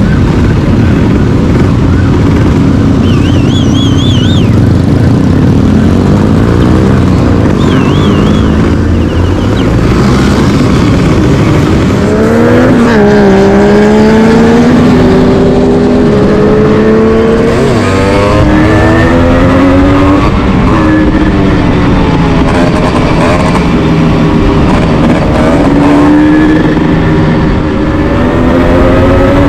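Motorcycle engines running and being revved repeatedly, the pitch rising and falling again and again over a loud, continuous engine rumble.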